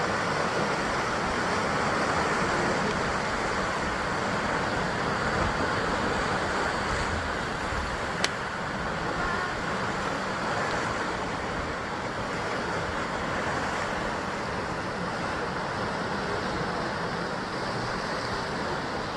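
Sea surf washing and breaking against a rocky basalt shore in a continuous, steady rush, with one sharp click about eight seconds in.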